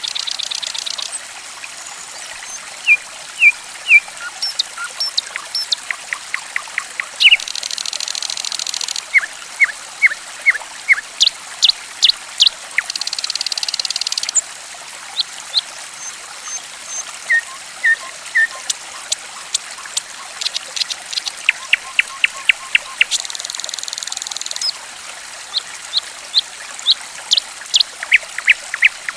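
Songbird chirping in quick runs of short sharp notes, with a few harsh high chattering bursts about a second and a half long, over a steady trickle of flowing water.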